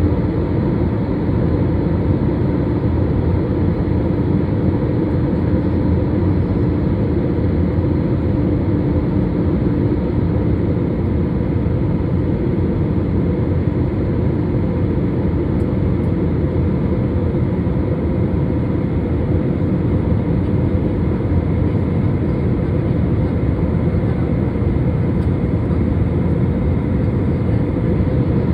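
Jet airliner in flight after takeoff: steady engine and airflow noise with a constant low hum, unchanging throughout.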